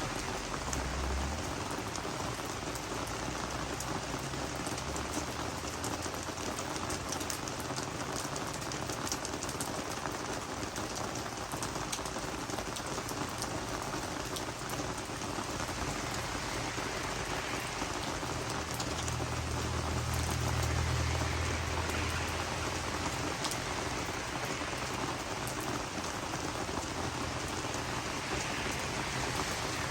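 Steady rain falling on garden plants and leaves, a continuous patter of many small drop ticks. A low rumble swells briefly about two-thirds of the way through.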